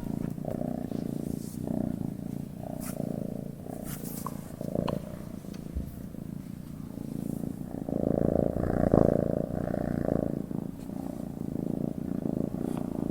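Domestic cat purring steadily while asleep, a continuous low rumble that swells louder for a couple of seconds about two-thirds of the way through.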